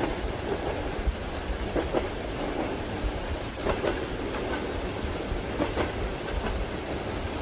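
Rain falling steadily over the low rumble of a moving train, with irregular knocks of the wheels on the rails.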